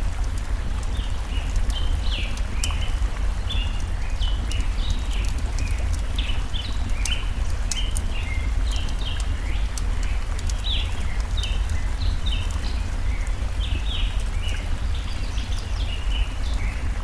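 Mixed forest ambience: a steady low rush of flowing stream water under continual short bird chirps, with sharp crackles from a campfire scattered throughout.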